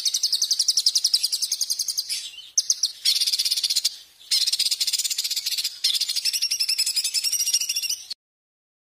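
Recorded songbird song used as a masteran: rapid, high, harsh trills of quickly repeated notes in four or five bursts with short breaks between them, cutting off abruptly about eight seconds in.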